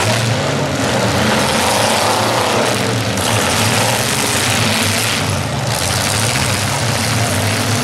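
Several demolition derby cars' engines running at once, a loud, steady din with a low drone underneath.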